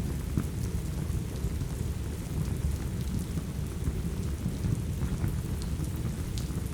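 Steady rain with a deep low rumble, mixed with the scattered small crackles of a wood fire.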